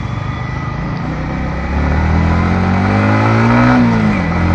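Yamaha MT-15 V2's 155 cc single-cylinder engine on its stock exhaust, heard from the bike while riding. The engine note grows louder about two seconds in and climbs in pitch under throttle, then falls sharply near the end.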